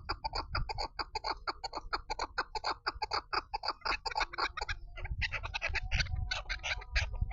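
Female chukar partridge calling: a rapid run of short clucking notes, about five a second, turning into more grouped bursts after about five seconds, when a steady held tone joins in.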